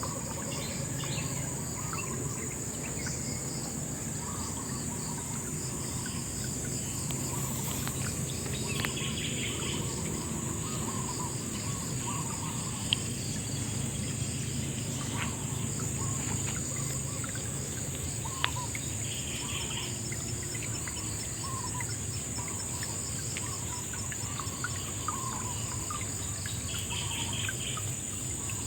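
Riverside ambience: a steady high-pitched insect drone, scattered bird calls and chirps, and a low rushing haze of river water. Two sharp clicks stand out near the middle.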